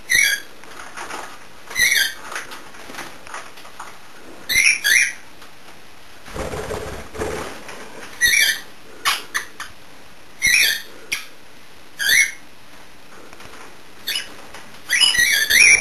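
Small pet parrots calling: short, wavering high chirps repeated every second or two, with a few sharp clicks and a brief rustling noise about six seconds in.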